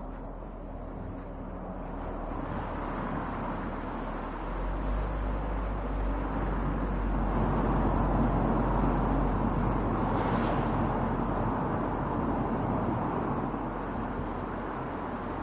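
Tyre and wind noise of a car driving on an expressway, picked up by a roof-mounted camera: a steady rush with a low rumble that grows louder to a peak about halfway through, then eases off near the end.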